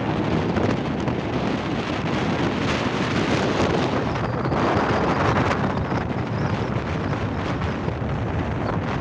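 Strong wind buffeting the microphone, a steady rushing noise with no letup.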